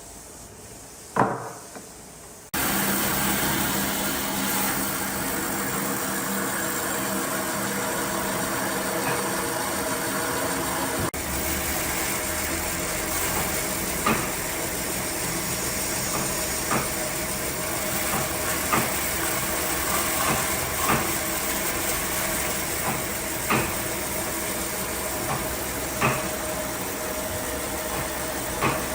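A single sharp knock, then a power tool's motor starts abruptly about two and a half seconds in. It runs on at a steady pitch, with short sharp clicks or knocks every two to three seconds.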